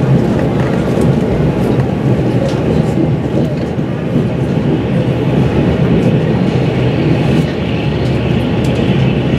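Taiwan Railway Fu-Hsing express passenger train running at speed, heard from on board: a steady rumble of wheels on the rails with a few faint clicks. A higher hiss grows stronger near the end.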